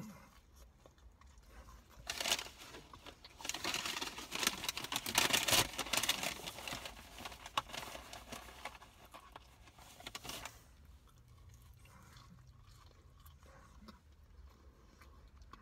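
Close-up chewing of a bite of fish sandwich: dense crunching and crackling that starts about two seconds in and stops about ten and a half seconds in, with only faint sounds after.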